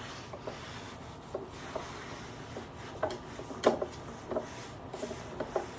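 A cloth rag rubbing wipe-on polyurethane onto bare wood, a soft continuous scrubbing with scattered light clicks and knocks of the wood pieces.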